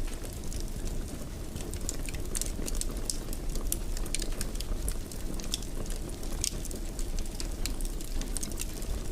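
Wood fire crackling in a fireplace: frequent irregular small pops and snaps over a low steady rumble of flames.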